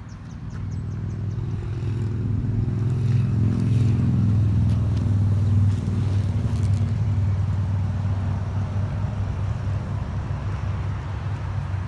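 The 2014 Toyota Tundra's 5.7-litre V8 engine running with a low, steady hum. It grows louder over the first few seconds and then eases off slowly.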